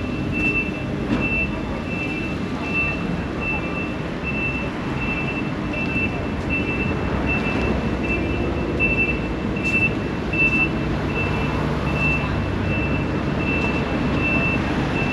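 Electronic warning beeper pipping steadily, short high beeps about two and a half times a second, over background street and vehicle noise.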